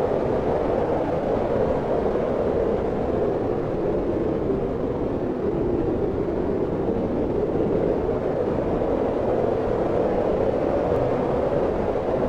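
Steady wind blowing, a continuous low whooshing that swells and eases slowly.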